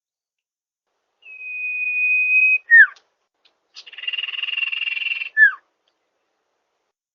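Common iora (cipoh) song used as a lure call: a long, steady, high whistle that ends in a short falling note, then a buzzy, rattling trill, also closed by a short falling note.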